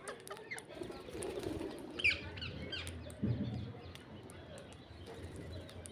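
Parrots feeding on rice, with small scattered clicks and a short burst of shrill, falling calls about two seconds in, followed by a low rush about a second later.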